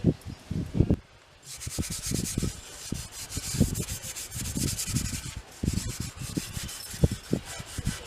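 Hand scrubbing or abrading strokes on bicycle parts, a quick back-and-forth rhythm of about two to three strokes a second, as in brushing rust off. A harsher hiss rides on the strokes from about a second and a half in until just past halfway.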